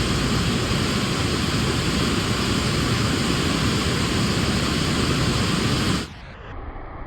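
Steady loud rushing noise that spreads evenly from low to high pitch. About six seconds in it cuts off abruptly and gives way to a quieter, duller sound.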